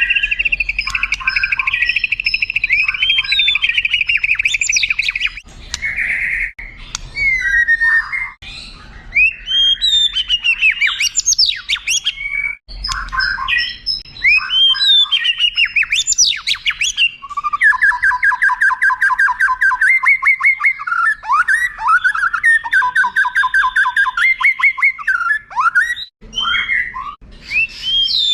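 White-rumped shama (murai batu) singing a long, varied song. It opens with a buzzy rattling phrase, moves through quick rising and falling whistles, then holds a long run of fast repeated notes through the second half.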